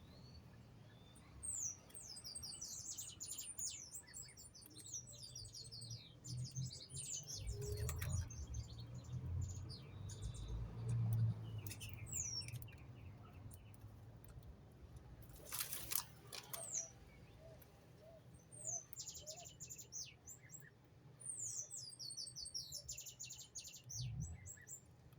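Small songbirds singing in quick, high chirping phrases that come in several separate bouts. A short loud rustle or bump cuts in about halfway through.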